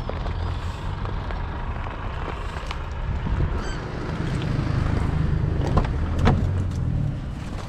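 Car engine running nearby, a steady low rumble that swells in the middle and eases off near the end, with a few light clicks.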